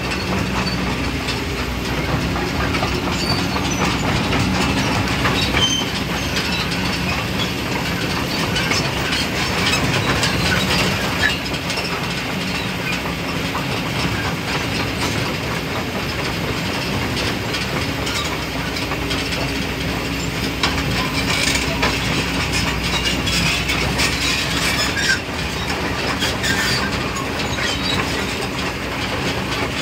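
Excavator working: a diesel engine running steadily under continuous mechanical clattering and clanking, with scattered knocks.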